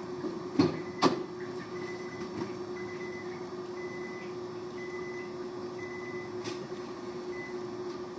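A vehicle warning chime beeping steadily about once a second, a short high single tone each time, over a low steady hum. It is preceded by two sharp clicks about a second in.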